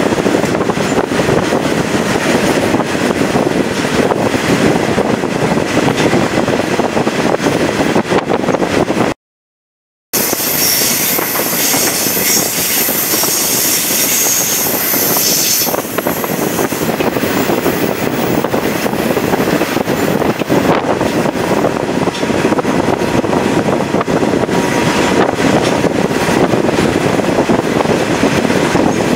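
Chepe passenger train running along the line, heard from an open window: a steady rush of wheels on rail and wind past the moving car. About nine seconds in the sound cuts out for a second, and then a high hiss rides over the rush for about six seconds.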